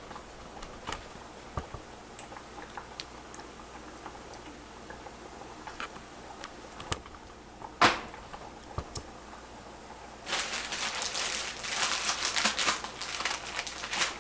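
Scattered light clicks and knocks of kitchen handling, with one louder knock about eight seconds in. About ten seconds in, floured chicken pieces start sizzling and crackling in frying grease that is not quite hot enough.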